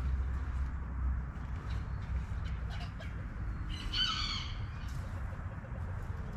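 A bird gives one short, harsh call about four seconds in, over a steady low rumble.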